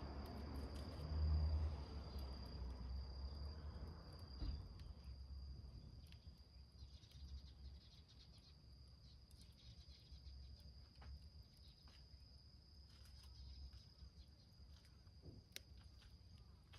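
Small wood fire burning in a metal can, crackling with faint scattered pops, over a steady high insect drone; a low rumble fades out after the first few seconds.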